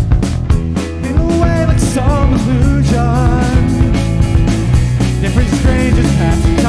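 Live rock band playing, with drums keeping a steady beat under wavering lead lines.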